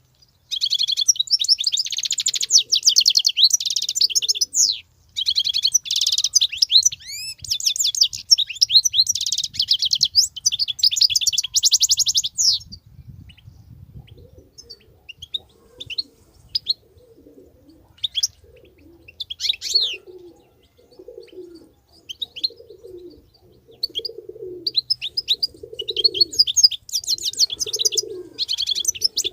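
European goldfinch singing a fast, continuous twittering song for about twelve seconds, then giving only scattered call notes before the song starts again near the end. Through the second half a dove coos low in the background, about once a second.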